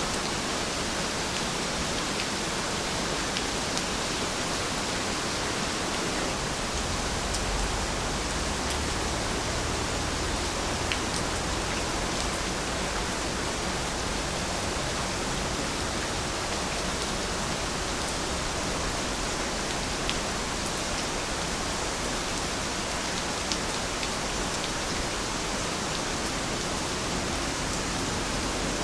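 Heavy rain falling in a steady, even hiss, with scattered faint drop ticks.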